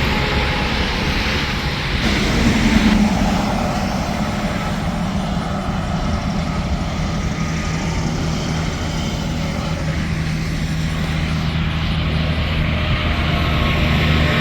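Interstate highway traffic: trucks and cars passing with a steady tyre hiss and a low engine drone, one vehicle passing louder about two to three seconds in.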